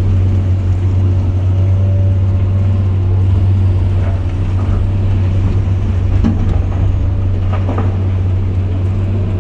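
Diesel engine of a bucket-equipped earthmoving machine running steadily under load, heard as a constant low drone, with a few faint knocks about six and eight seconds in.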